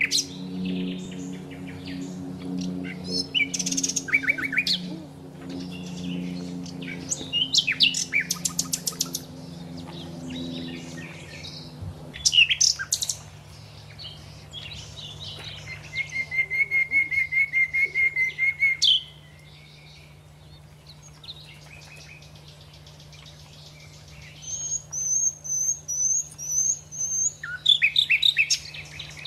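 Songbirds chirping, trilling and whistling in repeated short phrases, including a fast trill partway through and a run of high whistles near the end. A steady low hum runs underneath and thins out about twelve seconds in.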